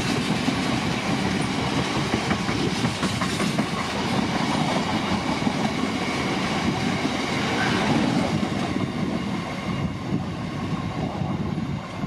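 Freight train rolling past, its wagons' wheels clattering steadily over the rails. The sound thins and eases a little near the end as the train draws away.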